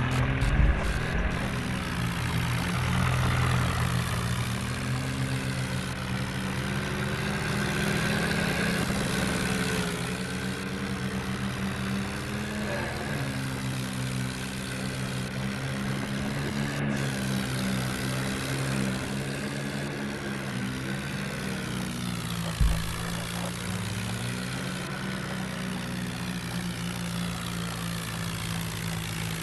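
John Deere tractor's diesel engine running, its pitch wavering up and down as the engine speed changes. A single thump about 22 seconds in.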